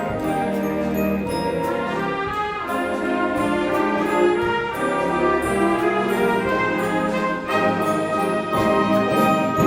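A symphonic concert band playing a Christmas medley arrangement, with brass (trombones and trumpets) prominent over the full band.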